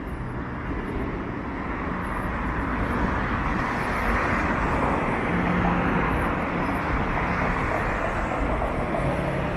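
City street traffic passing close by: a steady rush of tyre and engine noise that builds over the first few seconds and then holds.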